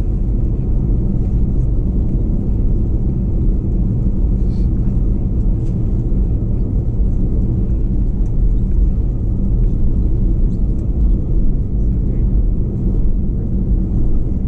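Steady low rumble inside an Airbus A321-211 passenger cabin, from its CFM56 engines and the airflow, with a few faint rattles.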